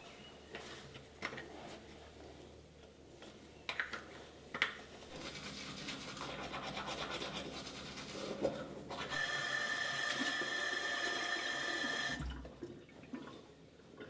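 A few light clicks of handling, then a hiss that builds, then a small electric motor buzzing steadily for about three seconds before cutting off suddenly.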